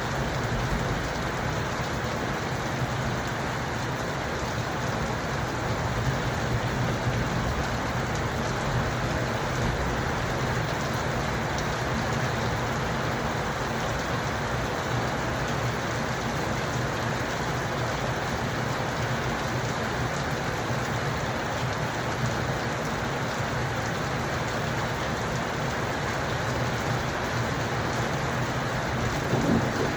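Steady rain falling without a break.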